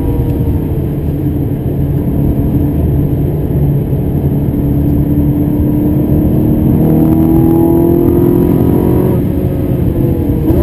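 Ferrari 360 Modena's 3.6-litre V8, heard from inside the cabin, pulling under load with its pitch climbing steadily for several seconds, then dropping about nine seconds in.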